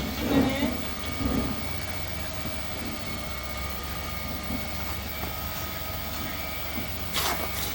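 Steady low drone of a running machine, with a short burst of noise near the end.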